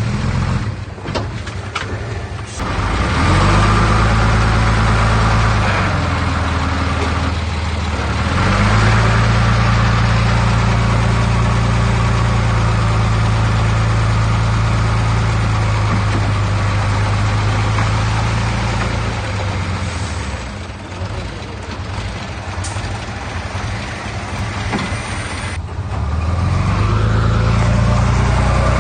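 Heavy diesel engine of earthmoving machinery running, with a steady low hum. It comes up strongly under load about three seconds in, again around eight seconds, and near the end, easing off in between.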